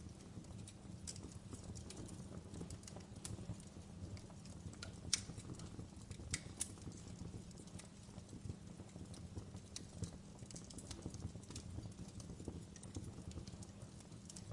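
Wood fire burning in a fireplace: a steady low rumble with scattered crackles and pops, the sharpest about five seconds and six and a half seconds in.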